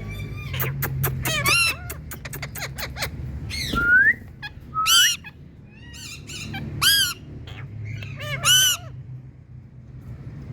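Indian ringneck parakeets calling: a string of loud calls roughly every two seconds, with a rising whistled note about four seconds in.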